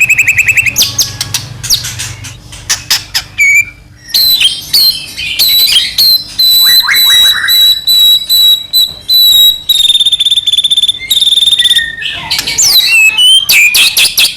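White-rumped shama (murai batu) singing loudly in a varied, non-stop song of clear whistles, fast trills and rattling notes. Through the middle it holds a long run of quick repeated notes on one high pitch.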